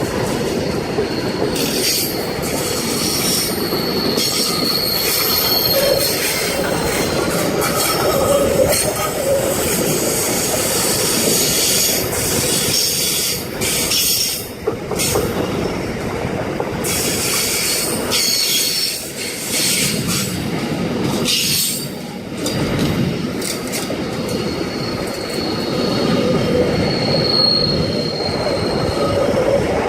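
Freight train rolling past at a platform: a steady rumble of wagons with thin high-pitched wheel squeals, most clearly a few seconds in and near the end, and repeated clicks as the wheels cross rail joints.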